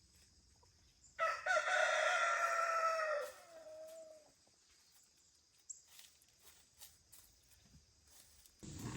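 A rooster crowing once: one long call of about three seconds that drops in pitch and trails off at the end. A low rustling noise starts near the end.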